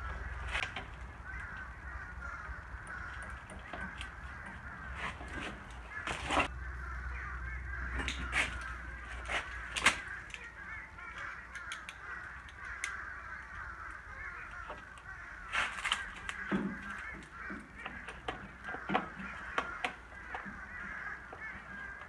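A flock of geese honking continuously in the distance, a steady wavering chatter of many calls. Scattered sharp clicks and knocks sound over it.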